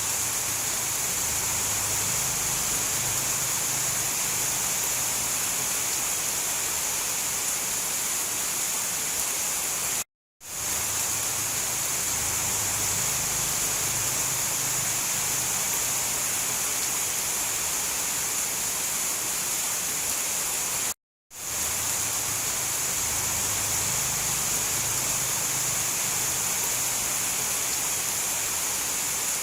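Steady, dense rainfall hiss with no distinct drops or thunder. It cuts out to silence for a split second about ten seconds in and again about twenty-one seconds in, then fades back in each time, as a repeating loop restarts.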